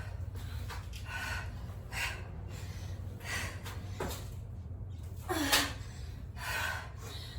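A person breathing hard from exertion, with short, forceful exhales and gasps about once a second, a few of them voiced and falling in pitch. A steady low hum runs underneath.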